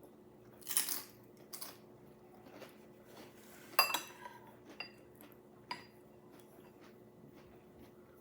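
Cutlery clinking against a bowl while eating, in a few separate taps, with one sharper ringing clink about four seconds in.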